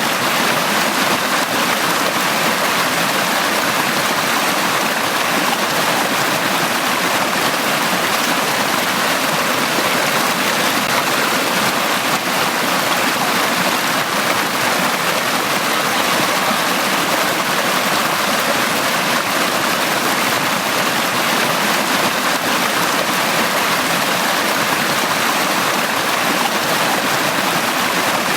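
Valley stream water flowing steadily, an even, unbroken rush of water with no changes or separate splashes.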